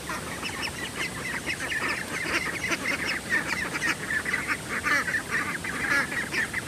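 A flock of ducks calling, with many short, overlapping quacks that get louder about two seconds in.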